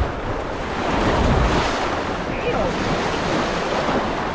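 Wind-driven waves crashing against shoreline rocks, with strong wind buffeting the microphone; the wash swells about a second in.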